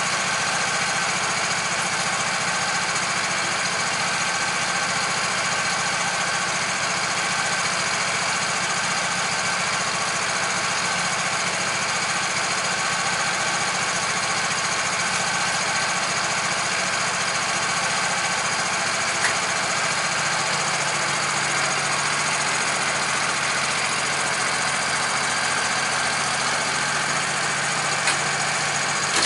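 A motor running steadily with an even hum that holds the same pitch throughout.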